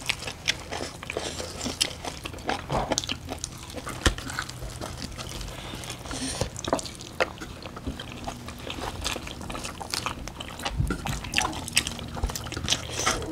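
Close-up wet eating sounds: chewing, lip smacking and sticky clicks of rice and curry being eaten by hand, a dense irregular patter of small clicks.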